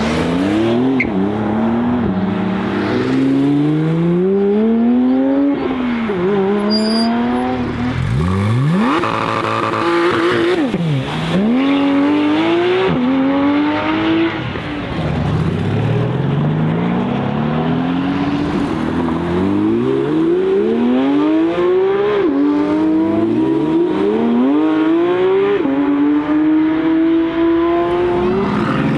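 Sports car engines accelerating hard, revving up through the gears with a sharp drop in pitch at each upshift, over and over. About nine to eleven seconds in, a car passes by, its pitch rising steeply and then falling away.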